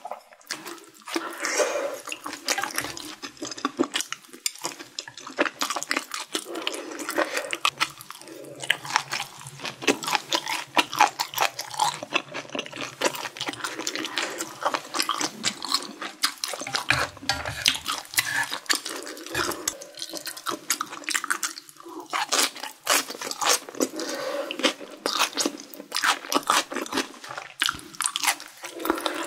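Close-miked chewing and biting of a mouthful of spicy stir-fried mala xiang guo: a steady run of quick, sharp clicks and crackles with a few short pauses.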